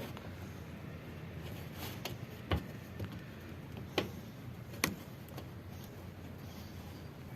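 Three sharp knocks from parts and tools being handled while a washing machine is reassembled, over a low steady hum. The knocks come about a second and a half, then just under a second, apart.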